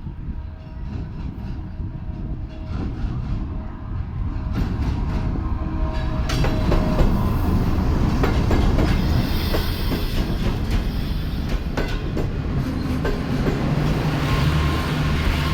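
Passenger express train running past close by: the rumble of the locomotive and coaches, with the wheels clattering over the rail joints. It grows louder over the first several seconds, then holds.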